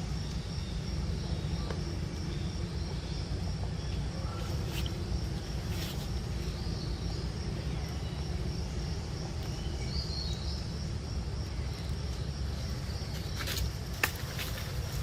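Outdoor ambience: a steady low rumble with faint steady insect trilling above it, a short high chirp about ten seconds in, and a few sharp clicks near the end.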